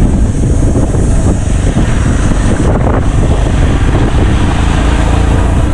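Motorcycle engine running while riding along a sandy track, with heavy wind buffeting the microphone.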